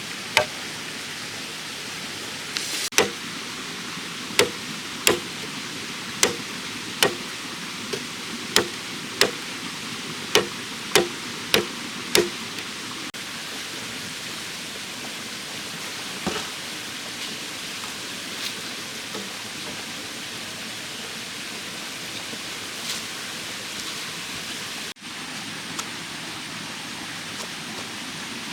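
About a dozen sharp, evenly paced strikes of a hand tool on bamboo during the first twelve seconds, then only a steady hiss of background noise.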